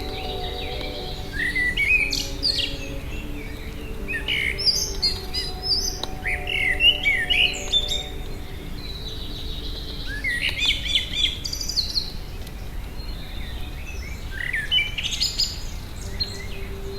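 A songbird singing bursts of high, quickly rising and falling warbling phrases, about four of them, with pauses of a second or two between. Steady low held tones sound underneath.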